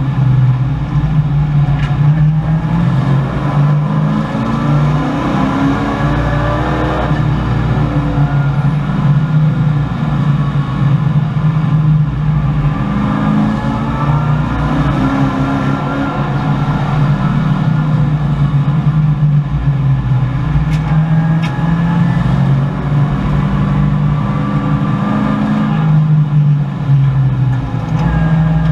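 1984 Chevrolet Camaro race car's V8 engine heard from inside the cabin, running hard at racing speed. The revs climb and drop again and again through gear changes and corners.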